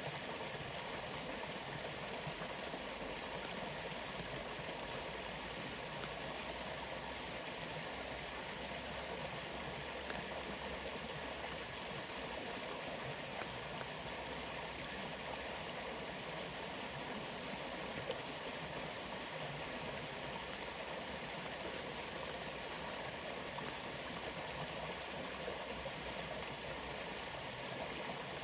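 Steady rushing of a waterfall, water pouring with an even, unbroken noise.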